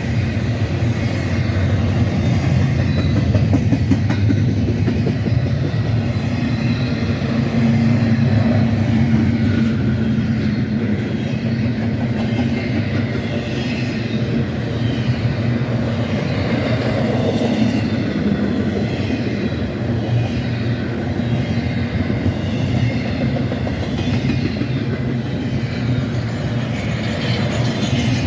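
Freight train rolling past: a steady, loud rumble of the cars running on the rails, with some clickety-clack.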